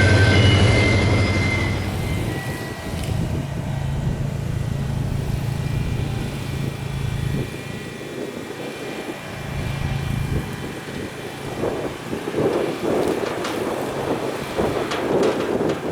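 Diesel locomotive on a passing freight train running off, its engine hum and a high wheel squeal fading within the first couple of seconds. A steady low engine drone then fades in and out, with irregular noise in the last few seconds.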